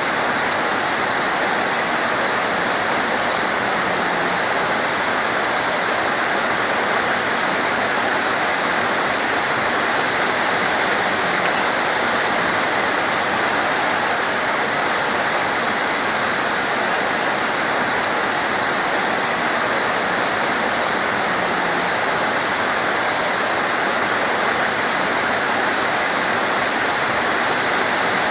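Heavy tropical rain pouring down steadily, a dense even hiss. Two brief sharp ticks cut through it, one right at the start and one a little past halfway.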